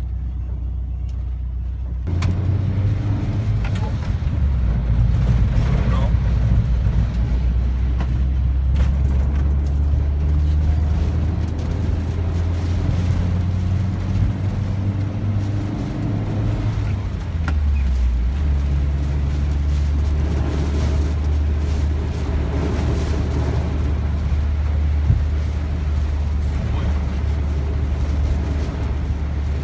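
Car being driven, heard from inside the cabin: a steady low engine and road rumble that gets louder about two seconds in and drops to a lower pitch about 17 seconds in.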